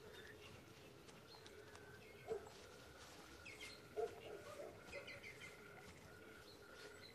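Faint birdsong: scattered chirps and a repeated high call, with two louder, lower short calls about two and four seconds in.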